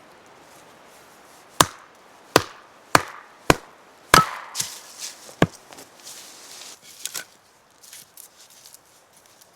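A blade chopping into wood: six sharp, evenly paced chops in the first half, then lighter knocks and rustling as the wood is handled.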